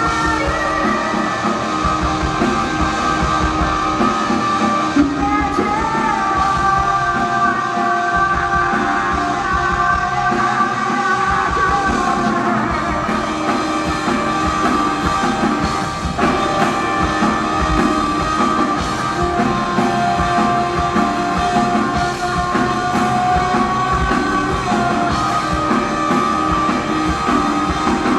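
Rock band playing live: two electric guitars holding long melodic lines over bass and a drum kit.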